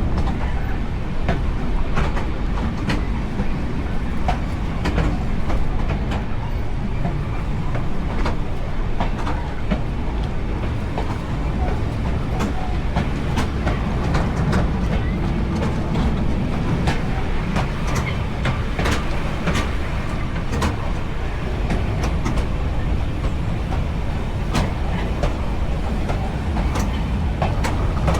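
Heritage railway carriage running along the track: a continuous low rumble of wheels on rail, with frequent sharp clicks and knocks as the wheels pass over rail joints.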